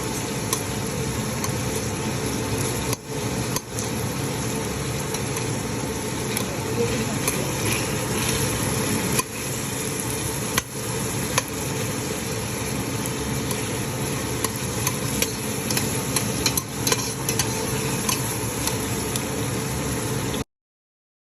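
Food sizzling in a frying pan while being stirred, the utensil clicking and scraping against the pan now and then. The sound cuts off suddenly near the end.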